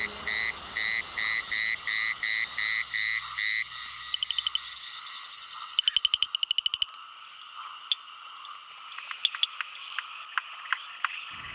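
Chorus of frogs calling at night. For the first few seconds one call repeats about twice a second, then rapid trains of clicking calls and scattered single clicks follow.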